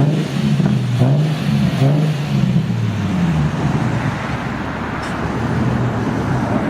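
Nissan 350Z with a Tomei exhaust, its engine pitch rising and falling as it is revved or driven for the first three and a half seconds. After that the engine note fades into a steady rushing noise.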